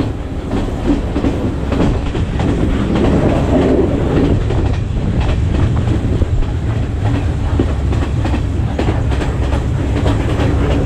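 Passenger train running along the track: a steady, loud low rumble with the wheels clattering and knocking over the rail joints.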